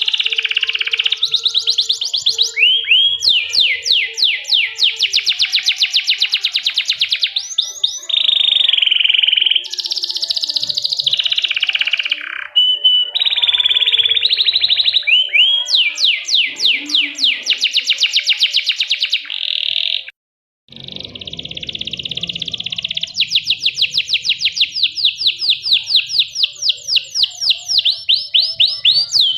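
Domestic canary singing a continuous song of rapid high trills and rolls, one run of repeated notes after another. The song breaks off briefly about two-thirds of the way through.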